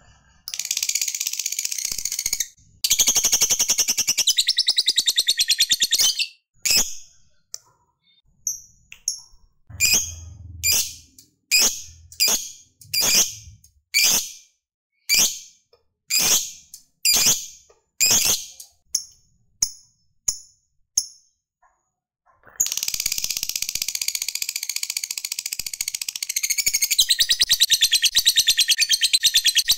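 Lovebird ngekek: a long, fast, high chattering trill. About six seconds in it breaks into single sharp chirps roughly one a second, and about 22 seconds in the long chatter starts again.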